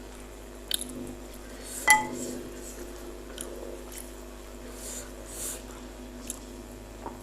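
Close-up mouth sounds of a person biting and chewing spicy Indonesian meatballs (bakso mercon), with small wet clicks. About two seconds in, a single sharp clink of a utensil against a bowl rings briefly.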